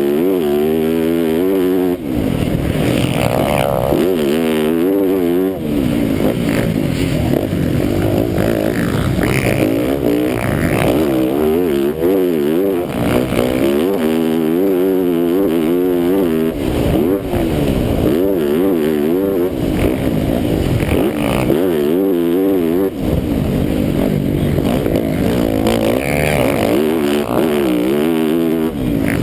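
MX1 motocross bike's engine heard close up from an onboard camera, revving up and dropping back again and again as the rider accelerates, shifts and shuts off for turns.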